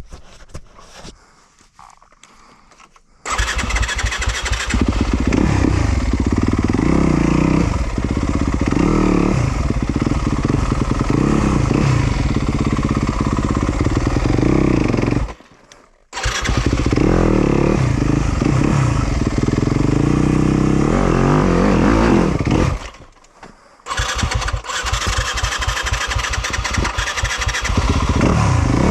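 Yamaha YZ250FX's 250 cc single-cylinder four-stroke dirt bike engine coming in suddenly about three seconds in and running hard, its pitch rising and falling with the throttle. It drops out abruptly twice for under a second and comes straight back each time.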